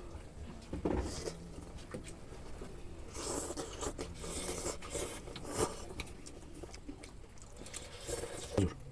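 Someone eating a bowl of hot instant noodles: scattered clicks and scraping of a utensil against the bowl, with short noisy bursts of eating and slurping between them.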